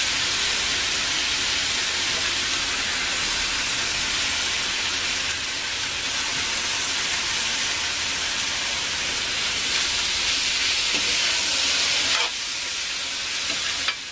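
Wet poha and vegetables sizzling in hot oil in a metal kadai, a steady hiss that drops off about twelve seconds in, with a spatula stirring near the end.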